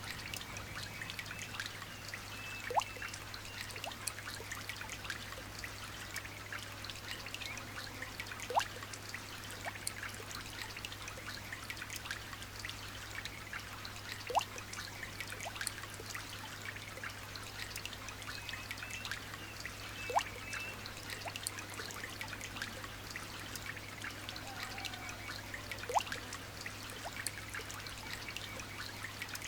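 Light rain dripping and trickling, a dense patter of small drops with a louder single drop about every six seconds.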